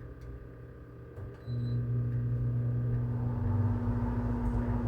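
Air conditioner switching on: a short high beep about a second and a half in, then a steady low hum starts up and keeps running.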